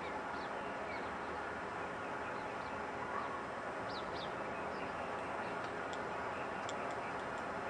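Small birds chirping now and then, with a few quick chirps close together about four seconds in, over a steady faint background hiss.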